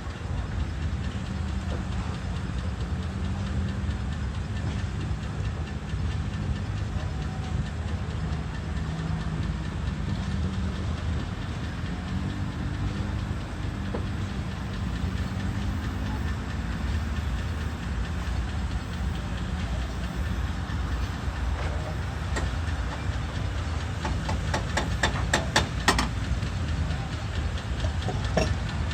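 Steam traction engines running, a steady low mechanical rumble. A little before the end comes a quick run of sharp ticks, about five a second, for a couple of seconds.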